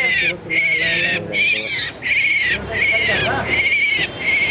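A bird calling over and over, about two short wavering cries a second.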